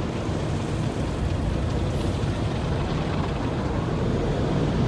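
Automatic tunnel car wash equipment working over the vehicle, heard from inside the cabin: a steady low rumble and wash that swells slightly toward the end.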